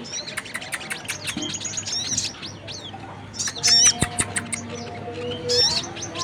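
Sunbird lure calls, crimson sunbird (sogon) and brown-throated sunbird (kolibri kelapa) mixed, as a run of high, quick chirps and short trills. The loudest burst comes a little past halfway.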